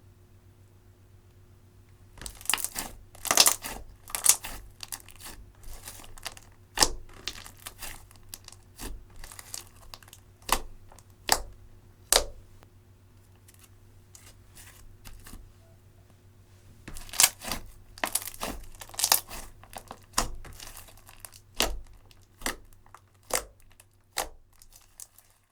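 Slime being squeezed and pressed by hand, giving irregular sharp pops and crackles in two runs with a short lull between them.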